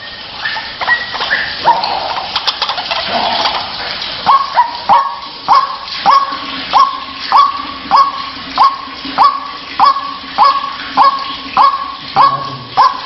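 White-breasted waterhen (ruak-ruak) calling: a few seconds of irregular, rasping 'kruwaak' calls give way about four seconds in to a steady run of sharp, repeated notes, a little under two a second.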